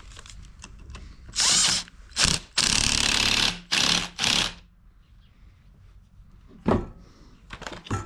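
Power drill run in five short bursts, the longest about a second, driving a fastener in. A single sharp knock follows a couple of seconds later.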